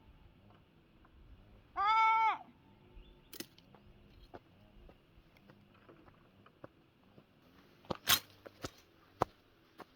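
A goat bleats once, about two seconds in. Scattered clicks and knocks follow, the loudest a sharp knock about eight seconds in.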